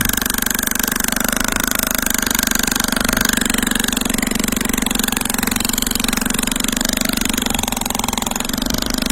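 Small electric motor of a homemade miniature cement truck model running steadily, a constant hum with a fast rattling flutter.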